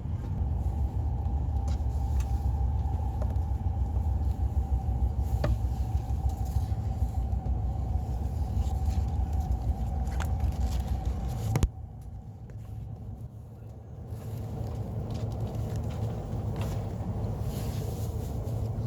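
Shinkansen bullet train running at low speed, heard on board as a steady rumble with a steady whine over it. About two-thirds of the way through a sharp click comes and the rumble drops for a couple of seconds, then comes back with a lower whine.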